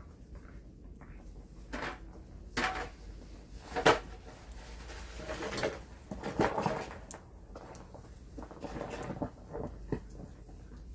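Irregular knocks, scrapes and clatter from something being handled, the loudest knock just before the middle.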